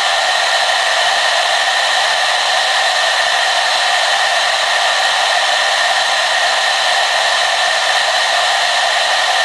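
Hair dryer running steadily: an even rush of blown air with a steady whine from its fan motor, unchanging throughout.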